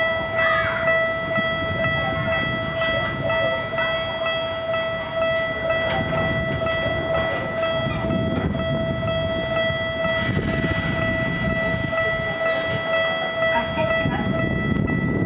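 Gakunan Railway 7000 series electric train standing at a station, heard from inside the car: a steady high whine over a low rumble, with a burst of hiss about ten seconds in.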